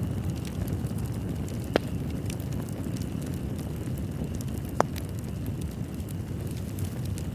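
Wood fire crackling in a fireplace: a steady low rumble of flames with scattered small crackles and two sharper pops about three seconds apart.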